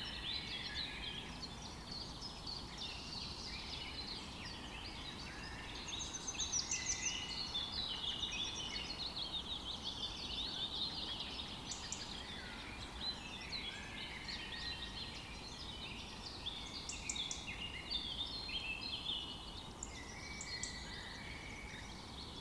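A chorus of many birds singing at once: dense, overlapping chirps and trills over a steady low background hiss.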